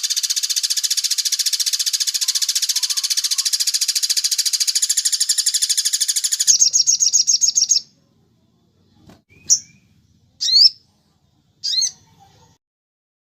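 Songbird singing: a loud, very fast buzzing trill for about six and a half seconds, then a shorter warbling trill, followed by three short, sharp chirps about a second apart.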